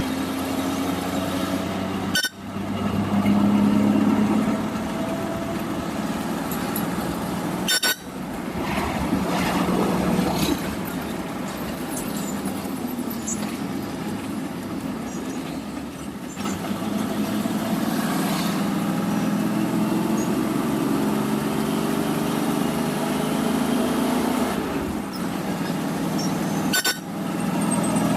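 Loaded lorry's diesel engine and road noise while driving, a steady hum that breaks off sharply a few times. About two-thirds of the way through, the engine note climbs slowly as the truck picks up speed.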